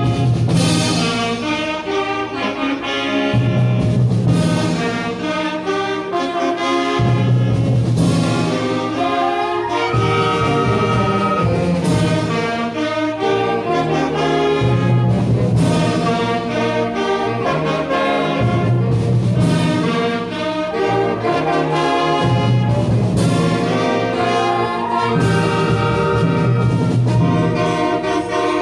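Elementary-school wind band playing in full ensemble, brass prominent over the rest, with sharp percussion hits every few seconds.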